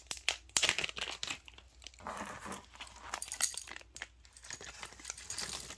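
Handling noise: irregular crinkling and rustling with small sharp clicks, from jewelry and its wrapping being handled.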